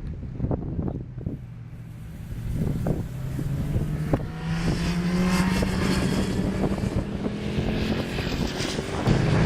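Kawasaki Z1000SX inline-four engine accelerating, its note rising slowly in pitch from a few seconds in, easing briefly and then coming back louder near the end, with wind buffeting on the microphone.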